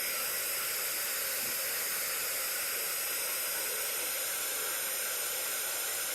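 Steady white-noise hiss from a white noise generator, even and unbroken.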